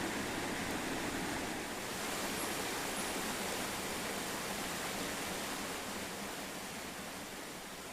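Steady rush of running water, easing down slowly toward the end.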